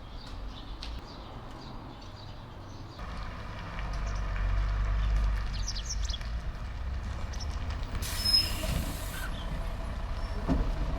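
Low rumble of a heavy diesel engine that grows louder about three seconds in, with a short hiss about eight seconds in. Birds chirp faintly.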